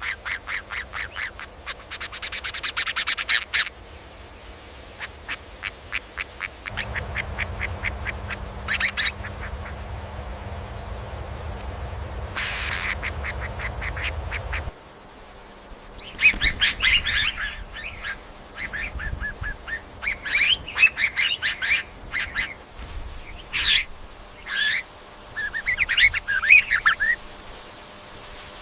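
A bird giving fast runs of short, harsh calls, several notes a second, in bursts with short gaps between them.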